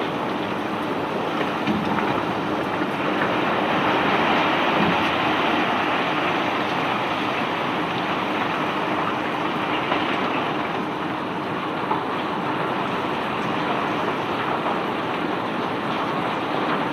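Crushed rock cargo pouring and rattling steadily as a barge is unloaded, a continuous dense rush dotted with small clicks, over a faint steady machinery hum.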